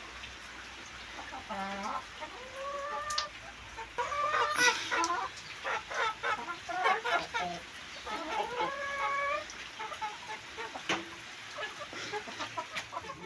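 Chickens clucking: a run of short repeated calls through the middle, with a few knocks.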